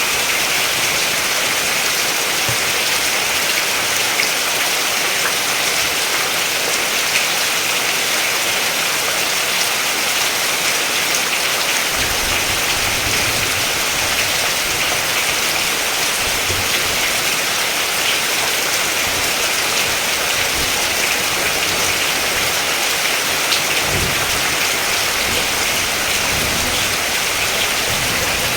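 Steady rain falling, an even hiss with scattered small drop ticks and, once or twice, a faint low rumble underneath.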